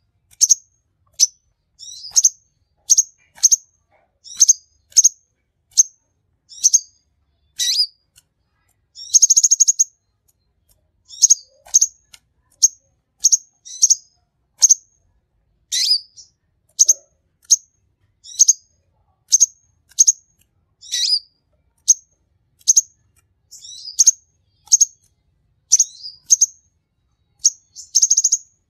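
Konin sunbird singing: a long series of short, high chirps, about one or two a second, broken by a brief buzzy trill about a third of the way in and again near the end.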